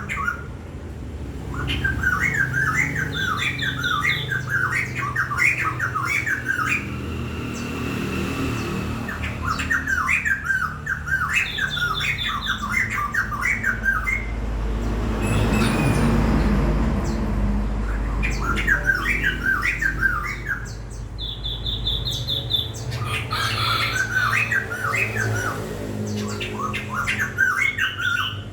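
A songbird singing in repeated phrases of quick chirping notes, each phrase a few seconds long and often opening with a short, fast, high trill. A low rushing noise swells up around the middle.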